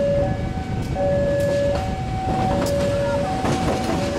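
A level-crossing warning alarm sounds two alternating tones, one low and one higher, switching back and forth about every half second. Under it is the steady rumble of a diesel-hauled passenger train passing, with wheels clacking over the rail joints from about a second and a half in.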